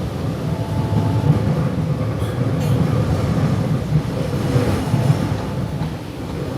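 Alstom-built Série 8900 electric multiple unit running between stations, heard from inside the passenger car: a steady low rumble of wheels on the track with a faint steady hum above it.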